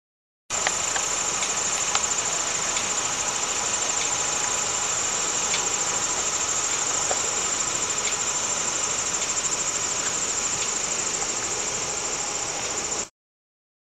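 Steady chorus of insects chirring in one high, finely pulsing pitch, over an even rushing noise. It starts abruptly about half a second in and cuts off suddenly near the end.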